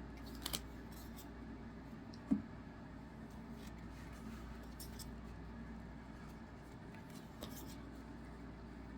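Faint handling of trading cards: soft scattered rustles and clicks as cards are slid and flipped, with one short knock a little over two seconds in, over a low steady hum.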